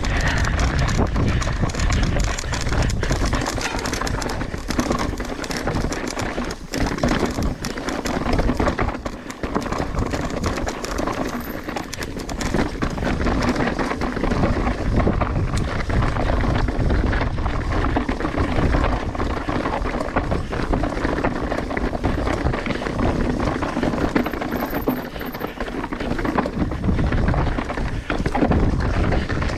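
Mountain bike rolling down a rough, wet trail: tyre noise over dirt and rock with constant clattering and rattling of the bike over bumps.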